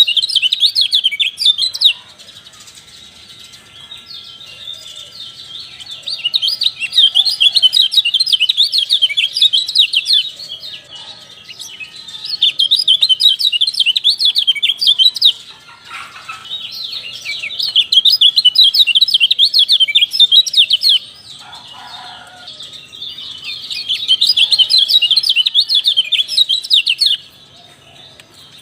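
Kecial songbirds singing: five bursts of rapid, busy chirping, each a few seconds long, separated by short pauses.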